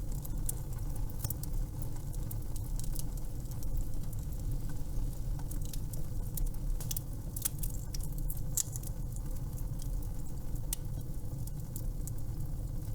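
Wood fire crackling in a fireplace: a steady low rumble of burning with irregular sharp pops and crackles, several a second at times.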